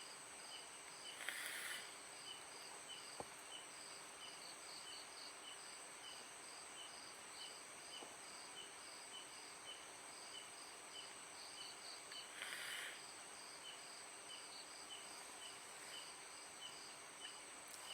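Crickets and other night insects calling: a steady high trill with short chirps repeating at an even pace. Two brief bursts of hiss break in, about a second in and again past the middle.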